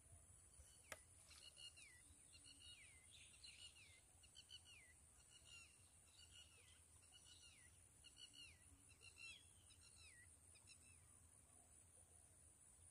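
Faint birdsong: a bird repeating short downward-sliding whistled notes, one or two a second, for about ten seconds, over a steady high-pitched whine. A single sharp click about a second in.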